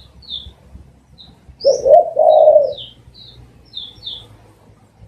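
Spotted dove cooing once about two seconds in: two short rising-and-falling notes, then a longer held coo. High, short chirps from smaller birds sound on and off throughout.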